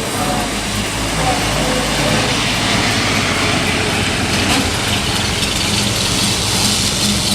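1927 Pontiac coupe's inline-six engine running steadily.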